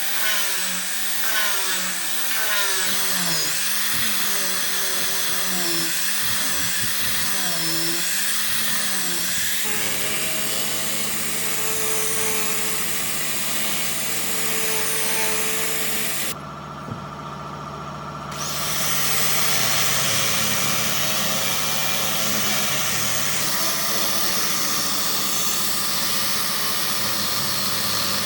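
Electric power tool running and cutting or shaping wood. For the first ten seconds its pitch wavers up and down about once a second as the load changes, then it runs steadily.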